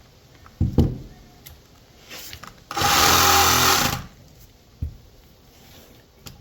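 A handheld power tool run in one short burst of a little over a second, cutting into a scrap electric motor. A loud thump comes before it and a lighter knock after.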